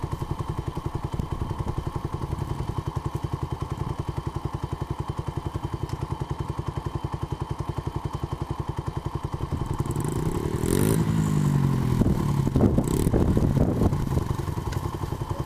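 Small Honda 70 dirt bike's single-cylinder four-stroke engine idling with an even, rapid putter. About ten seconds in it revs up a few times, with some clattering, then drops back to idle.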